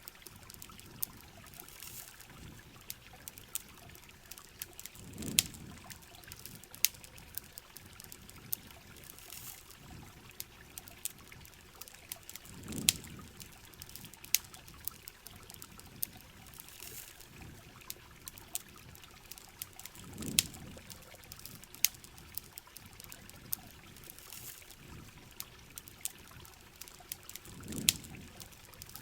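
Steady heavy rain with the sharp, irregular crackles of a campfire. A low pouring, trickling swell of water comes back about every seven and a half seconds.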